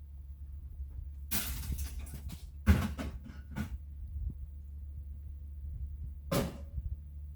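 Sheet-metal furnace parts being handled and pulled apart, with scraping and rattling and a sharp metallic knock about two and a half seconds in, then another short clatter near the end, over a steady low hum.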